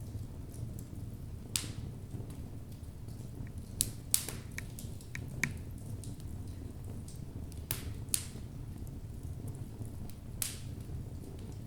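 Wood logs burning in a fireplace: a steady low rumble of the fire with irregular sharp crackles and pops from the burning wood, about nine in all, the loudest a little over four seconds in.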